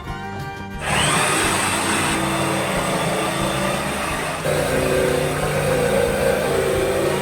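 An electric power tool starts about a second in, winding up with a short rising whine, then runs steadily. About four and a half seconds in it gets louder, and a lower tone comes in.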